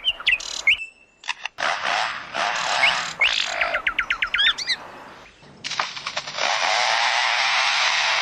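Wild birds singing and chirping in a dense chorus of squawks and chirps, with a quick run of repeated falling notes about four seconds in.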